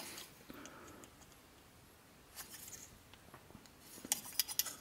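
Small smooth-jawed pliers working thin copper rose petals: faint scattered clicks and scrapes of the jaws on the metal, with a quick run of sharper clicks about four seconds in.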